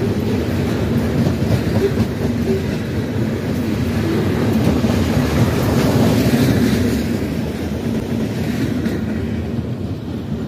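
Wheels of a freight train of open-top hopper cars rolling past on the rails. The noise drops off about seven seconds in as the last car goes by.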